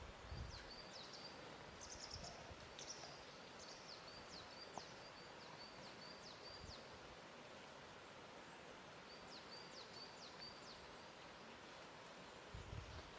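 Faint lake-shore ambience: a soft steady hiss with a small bird's quick, high, falling chirps in two spells, one in the first few seconds and another about nine seconds in. A soft low rumble of water lapping comes near the end.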